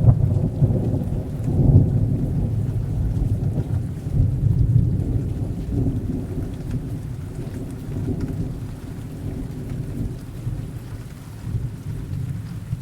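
Thunder rumbling over steady rain: a sharp crack-like onset right at the start, swells again about two and five seconds in, then a long rolling fade.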